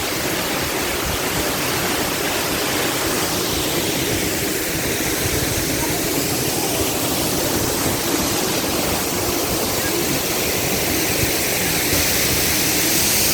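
Waterfall pouring into a pool, a steady full rush of falling water.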